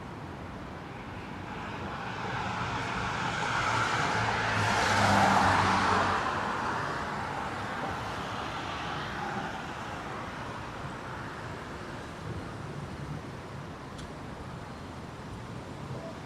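A motor vehicle passing by over steady traffic noise, rising to its loudest about five seconds in and fading away.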